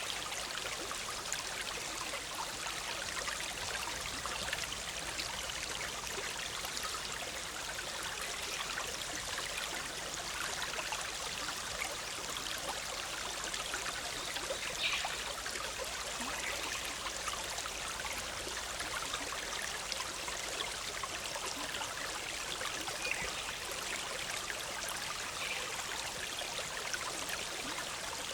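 Shallow forest river bubbling and rushing over rocks in a steady, even flow.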